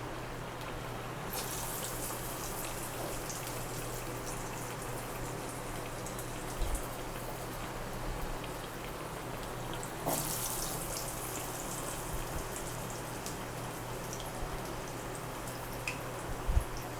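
Pesara garelu (green gram fritters) deep-frying in hot oil, a steady fine sizzling crackle that grows louder about a second in and again about ten seconds in. A couple of short dull knocks are heard near the middle and near the end.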